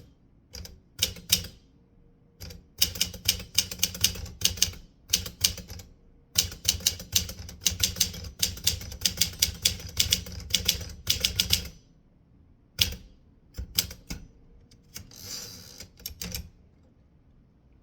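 Typewriter keys striking in quick runs with short pauses between. The typing thins out to a few scattered strikes and a short rasping sound after about twelve seconds, then stops near the end.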